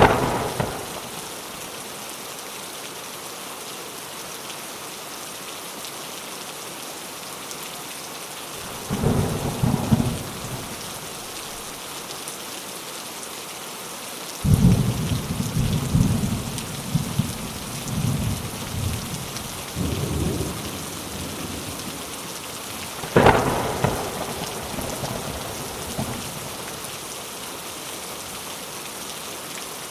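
Steady rain falling, with thunder: a sharp clap right at the start, a low rumble about nine seconds in, a longer rolling rumble from about 14 to 21 seconds, and another sharp clap about 23 seconds in.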